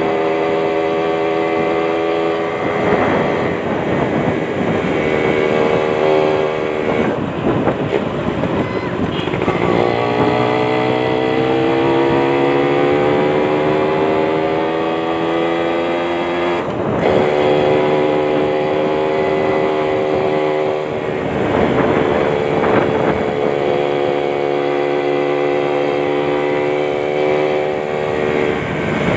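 Yamaha Champ two-stroke motorcycle engine running at high revs through a racing exhaust. It holds a steady high pitch, climbs slowly for several seconds in the middle, and changes pitch abruptly a few times.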